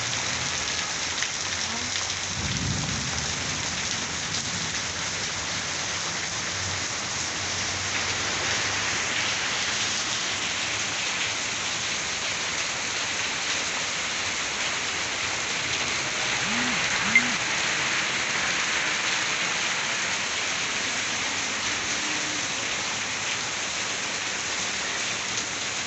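Heavy rain pouring down steadily on garden plants and hard surfaces, a dense even hiss. One brief sharp click about two-thirds of the way through.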